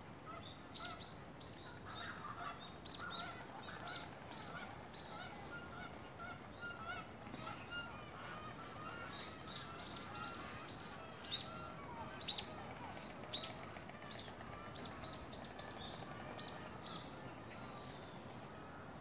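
Birds calling: a stream of short, high chirps over a lower honking chatter, like geese or other fowl, with three sharp louder notes a little past the middle.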